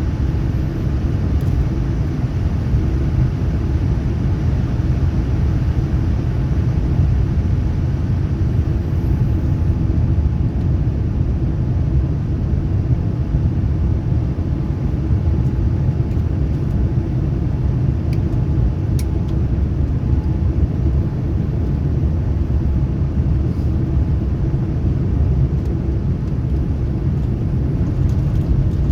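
Steady low rumble inside the cabin of a Boeing 787-9 airliner: the noise of its Rolls-Royce Trent 1000 engines and the airflow, heard from a window seat. It holds an even level throughout.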